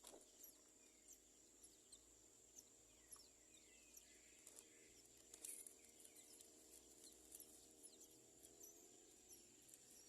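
Very faint bird chirps: many short, quick, falling high notes repeating irregularly over a steady high-pitched whine.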